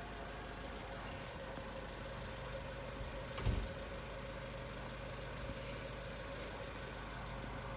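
Steady low motor hum, like an engine idling, with one dull thump about three and a half seconds in.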